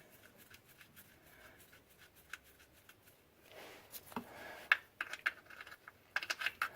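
Faint scattered clicks and light scraping from hands turning a steel oil drain plug into the oil pan by hand, with a few sharper ticks in the middle and a quick run of clicks near the end.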